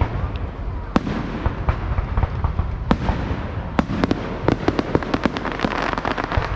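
Fireworks going off: scattered sharp bangs and pops, then a rapid run of many cracks about four seconds in, over a steady rumble.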